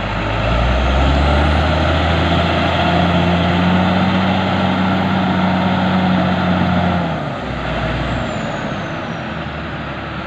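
Heavy diesel engine of an earthmoving machine revving up under load about half a second in. It holds steady with a faint high whine, then drops back toward idle about seven seconds in.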